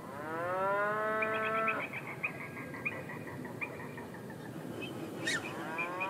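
Waterbird calls at a lake. A drawn-out call rises in pitch and then holds, and is followed by a run of quick, high chirps. A second rising call starts near the end.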